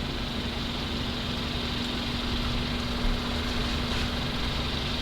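An engine idling, a steady drone with one constant hum held throughout.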